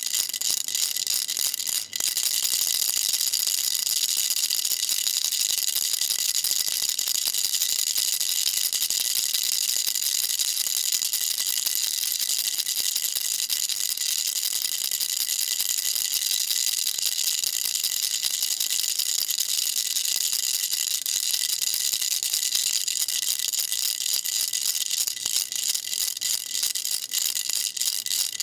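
Baby rattle shaken continuously, a dense high-pitched rattle of small beads with a brief break about two seconds in.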